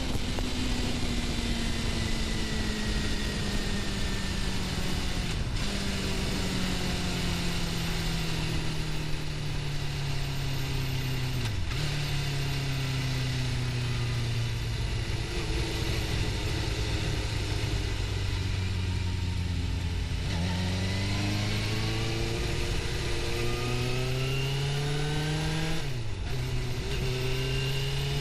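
Suzuki GSX-R750 inline-four engine heard from the rider's position, over steady wind rush. Its note falls slowly as the bike eases off, with two brief breaks, then rises steadily under acceleration from about two-thirds of the way in, with a gear change near the end.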